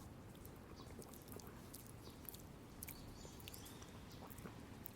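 Faint steady rain hiss with scattered small ticks.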